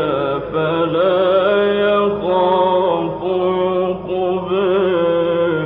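A man's voice reciting the Quran in the melodic mujawwad style, drawing out long notes with a wavering vibrato.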